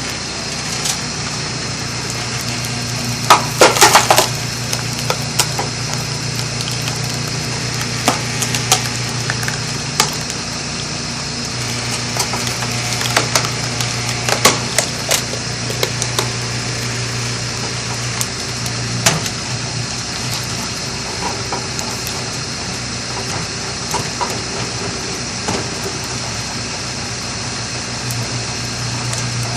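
Firewood cracking and splitting over a steady engine hum. A loud cluster of cracks comes about three to four seconds in, and scattered snaps follow.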